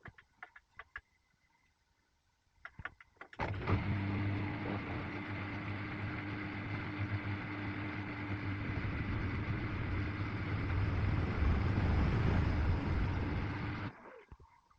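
A few clicks, then a motor-driven machine runs steadily for about ten seconds, starting and stopping abruptly.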